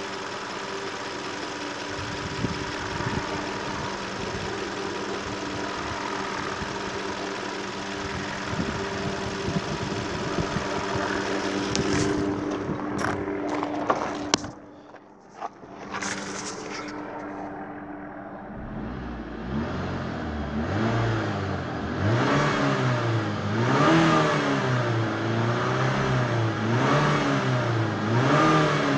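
2012 Suzuki SX4's 2.0-litre four-cylinder petrol engine idling steadily under the open bonnet. A car door is opened and shut with a couple of clicks. Heard from inside the cabin, the engine is then revved over and over, rising and falling about once every second and a half to around 3000 rpm.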